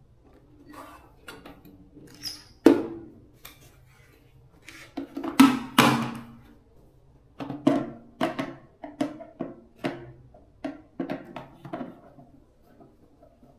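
A string of irregular knocks and clunks of hard objects being handled, each with a short ring; the loudest come about three seconds in and as a pair around six seconds, then a run of lighter knocks follows.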